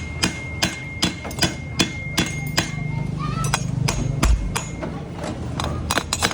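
Hammer blows on a motorcycle's metal exhaust silencer as it is put back together after repacking the fibre, about two to three strikes a second, pausing midway, then a few more near the end.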